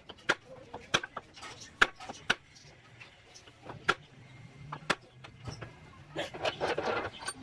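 Irregular sharp knocks and clicks from hands-on repair work, about six of them spaced a second or so apart, with a faint low hum in the middle and a voice briefly near the end.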